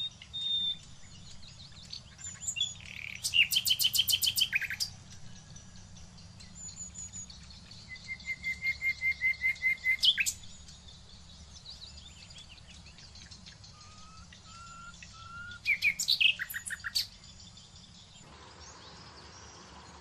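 Small birds chirping in several separate bouts. There are quick runs of repeated chirps about three seconds in and again near sixteen seconds, a run of evenly spaced notes from about eight to ten seconds, and three short whistled notes around fourteen seconds.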